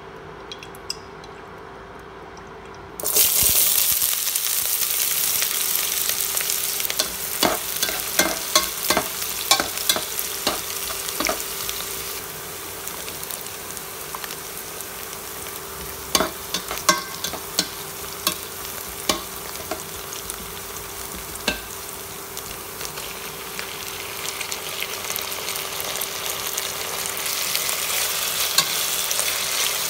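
Onions and garlic hit hot oil in a nonstick pot about three seconds in and start sizzling at once, then fry with a steady hiss while a spatula stirs and clicks against the pot. Later, strips of meat are stirred in the pot, still sizzling.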